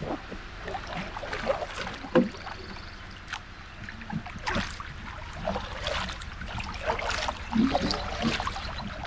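Paddle strokes in the water from a small solo pack canoe: irregular splashes, drips and gurgles.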